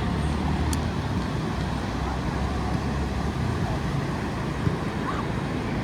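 Steady rushing beach ambience with a low rumble: surf and wind on the microphone, with faint far-off voices.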